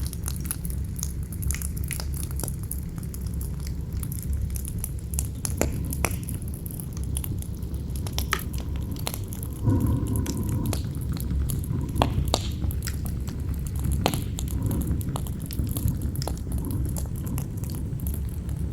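Campfire crackling, with sharp snaps and pops scattered throughout over a low rumble of wind. A louder gust comes in about ten seconds in.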